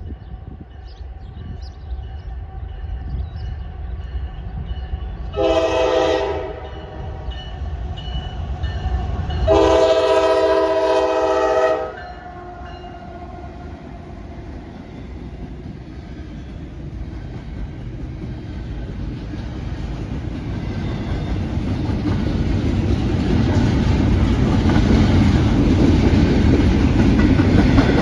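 Locomotive air horn sounding two blasts, a short one followed by a longer one, each a chord of several steady tones. The low rumble of the train rolling closer then grows steadily louder.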